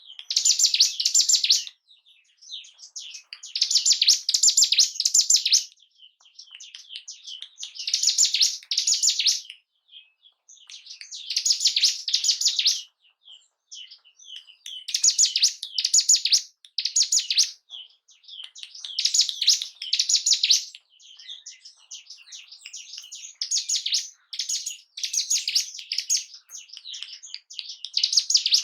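Ciblek gunung, a prinia, singing: high, rapid trilling phrases of about two seconds each, repeated every few seconds with softer chattering in between. This is a lure song played to rouse a kept bird's breeding drive and aggression.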